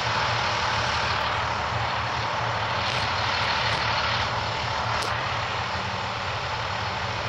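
Large truck engine running steadily at idle, a constant low rumble with a broad even noise above it.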